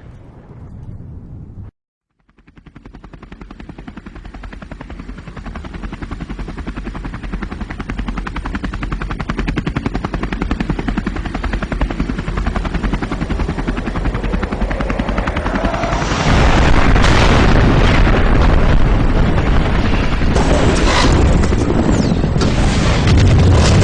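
Action sound effects: a fading rumble, a brief cut to silence, then a fast, continuous rattle that grows steadily louder and jumps louder again about two-thirds of the way through, with heavier crashes on top.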